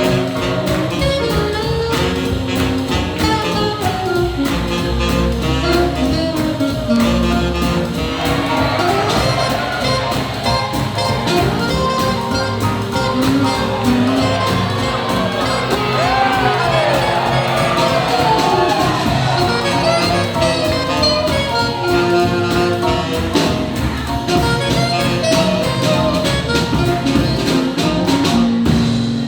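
Live swing jazz from a ten-piece band, with saxophone and trumpet lines over a steady drum beat.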